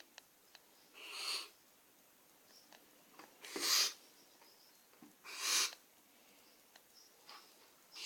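Baby barn owl hissing: four short, breathy hisses about two seconds apart.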